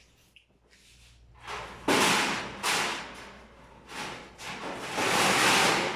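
Bird breeding cage being handled: knocks and sliding scrapes as its parts are moved, several short ones and a longer slide near the end.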